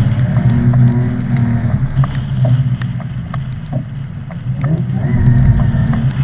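Ute's engine revving hard under drifting, the revs sagging through the middle and climbing again about five seconds in, with scattered sharp ticks over it.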